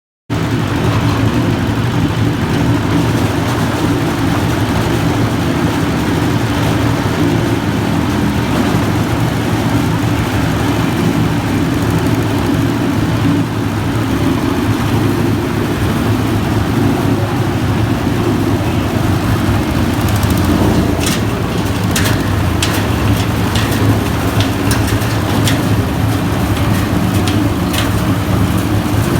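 A small stationary diesel engine running steadily, driving a foam-shredding machine. From about two-thirds of the way through, scattered sharp clicks join the steady running.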